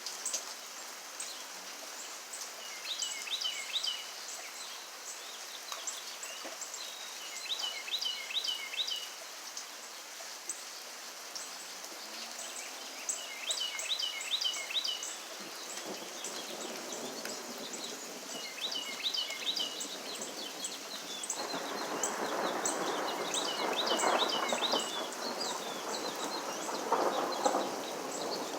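Steady rain with a bird calling over it: short groups of quick, falling high notes, repeated every few seconds. About three-quarters of the way through, the rain noise grows louder for several seconds.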